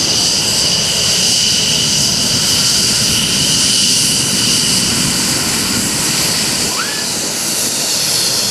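Twin jet engines of an F-15E Strike Eagle running, a steady, loud jet noise with a high whine held over it.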